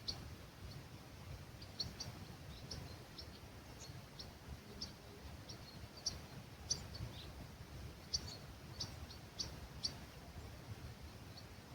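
Small birds giving many short, high chirps scattered through, some in quick pairs, over a low steady rumble of breeze.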